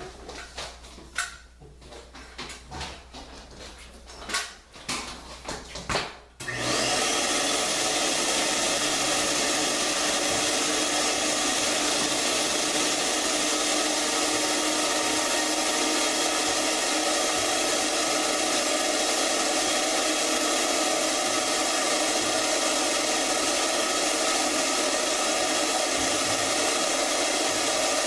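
Knocks and clicks of handling for about six seconds, then an electric motor switches on and runs steadily at an even level.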